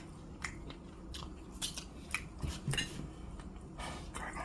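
A person eating fried chicken wings close to the microphone: irregular clicks and smacks of biting and chewing.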